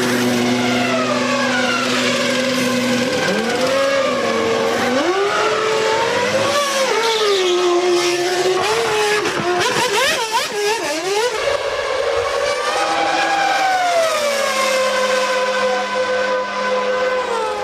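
Formula One race car engines at high revs: the engine note holds steady, drops and shifts about three seconds in, turns jumbled with several notes around the ten-second mark, then climbs again and holds steady near the end.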